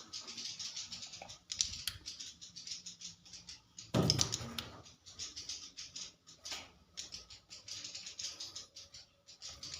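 Swiftlets inside a swiftlet house making rapid dry clicking and twittering, many clicks a second. About four seconds in there is a louder brief rustle or thump.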